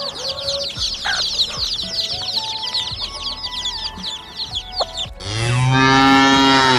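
Chicks peeping rapidly and continuously in high chirps. About five seconds in, a cow gives one long, loud moo, the loudest sound, which stops abruptly.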